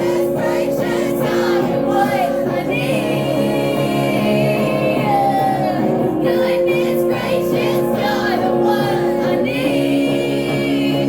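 Live song: a woman singing over a single guitar, holding long notes.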